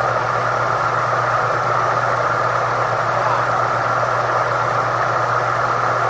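Homemade fan built from a GE furnace-blower motor spinning six ceiling-fan blades at full speed: a loud steady rush of air over a low motor hum.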